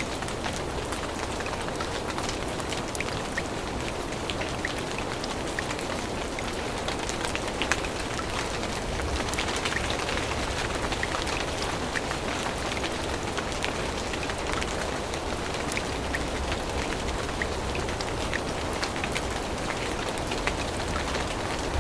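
Steady rain falling on forest foliage, a constant hiss with many individual drops ticking sharply through it.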